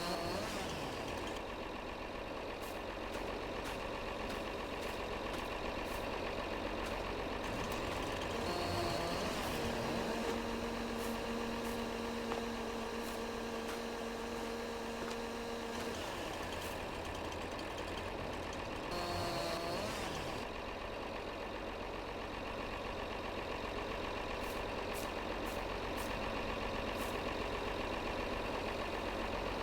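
Tractor engine running steadily, with a steady whine for several seconds in the middle and brief sliding tones three times.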